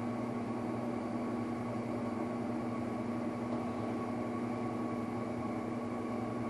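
Steady mechanical hum with a constant low tone and a fainter higher whine over a light hiss, unchanging throughout; no handling noises stand out above it.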